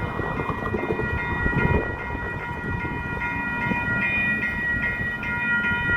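Railroad grade-crossing bell ringing with steady repeated dings, over the low rumble of an approaching Amtrak Capitol Corridor train.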